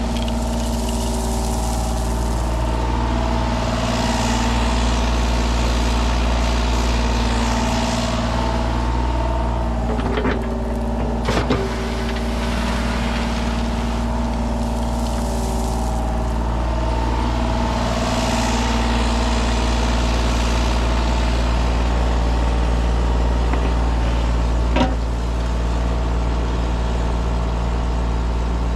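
Kubota 33 mini excavator's diesel engine running steadily under work, its sound swelling and easing every few seconds. A few sharp metallic knocks stand out, two of them about a third of the way in and one near the end.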